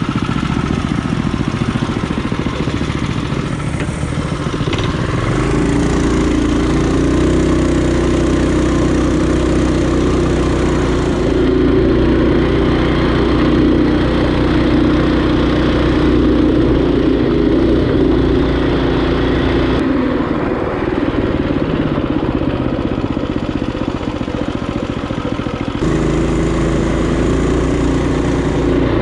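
Small single-cylinder four-stroke trail bike engines running under way on a ride, a steady engine note that shifts abruptly in pitch and level a few times.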